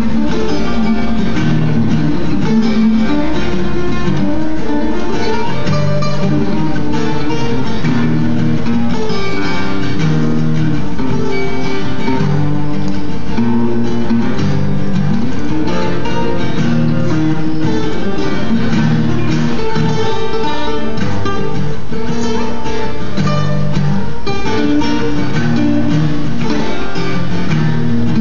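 Guitar playing an improvised solo: a dense, continuous run of notes at a steady level.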